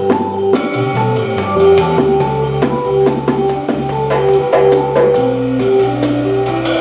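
Jazz organ trio playing live: organ carrying a stepping bass line under held melody notes, with a drum kit keeping time on cymbals, snare and bass drum.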